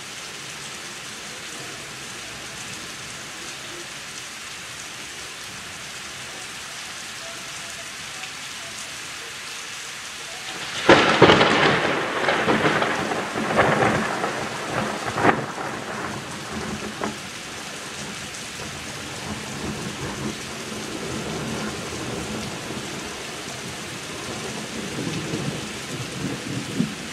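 Steady rain falling, then about eleven seconds in a sudden loud thunderclap that crackles in several sharp peaks for about five seconds and trails off into a lower rolling rumble of thunder over the rain.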